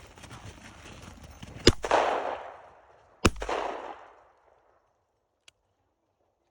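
Two gunshots about a second and a half apart, each followed by an echo that dies away over about a second.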